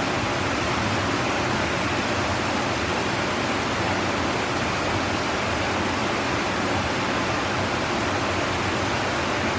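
Heavy tropical rain falling steadily: a dense, even hiss with no thunder claps.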